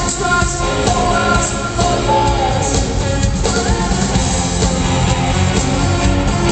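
Live rock band playing at full volume: electric guitar, bass and drum kit, with a melodic line standing out over the first half.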